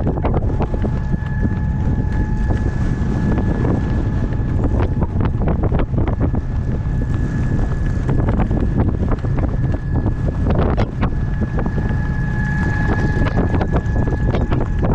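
Strong gale-force wind buffeting a microphone held inside a face mask, a loud low rumble throughout, with a faint steady whistle tone and irregular small knocks.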